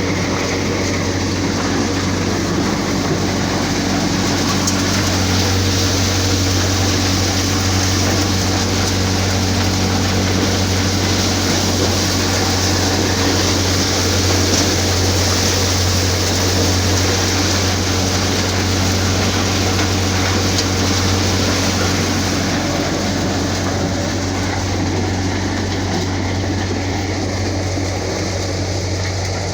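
John Deere 5050D tractor running an NVT thresher set up for maize: a steady diesel engine hum under the thresher's machine noise and hiss. The hiss strengthens after a few seconds and eases off again near the end.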